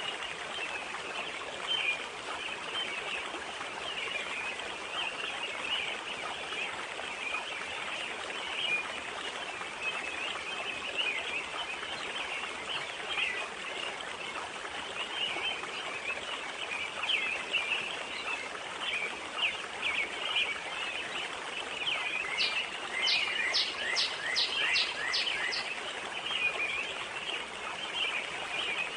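Forest-pond ambience: a steady rush of wind and water under many small birds chirping throughout. About two-thirds of the way in, one bird sings a quick phrase of about seven down-slurred notes.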